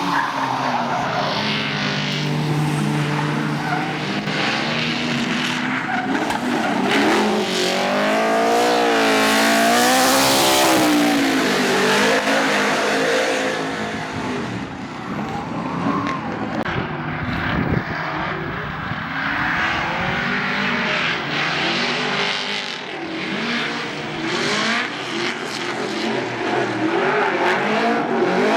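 Dodge-engined Holden Commodore drift car running hard, its engine pitch swinging up and down over and over as the throttle is worked through a drift, with tyres squealing and skidding. Loudest about eight to eleven seconds in.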